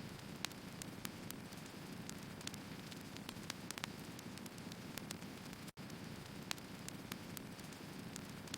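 Firewood burning in a steady hiss, with irregular sharp crackles and pops of the logs. The sound cuts out for an instant about two-thirds of the way through.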